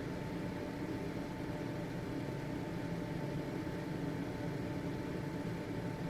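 Household exhaust fan running steadily, an even whir with a faint steady hum.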